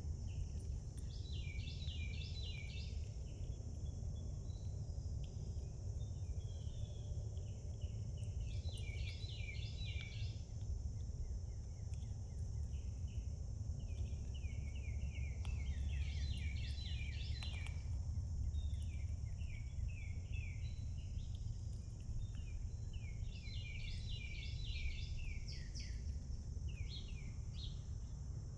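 A songbird singing the same song over and over, each phrase a quick run of chirped notes, about one every seven seconds, over a steady high insect drone and a low outdoor rumble.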